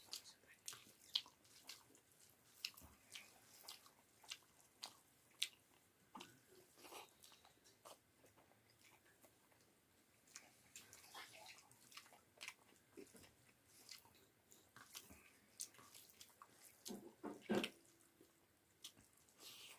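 Close-miked eating: a person chewing potato pakoras with rice and dal, giving soft wet mouth clicks and smacks at an irregular pace, with a louder cluster of them near the end.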